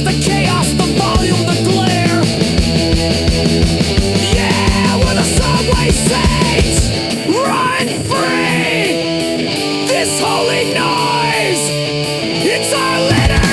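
Instrumental break of a distorted punk rock song: guitars and drums, with a lead line sliding up and down in pitch. About halfway through the kick drum and bass drop out, coming back in just at the end.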